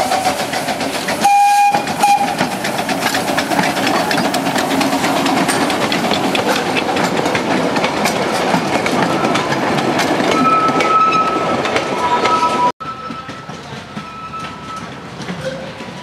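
Narrow-gauge train of open passenger carriages, hauled by a small Bagnall saddle-tank steam locomotive, rattling past with wheels clicking over the rail joints. A short whistle toot comes about a second and a half in. Near the end the sound drops suddenly and the train is fainter and more distant.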